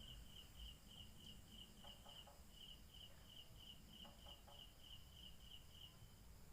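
Faint night-time cricket chirping: an even, high-pitched pulsed trill of about three pulses a second that stops near the end.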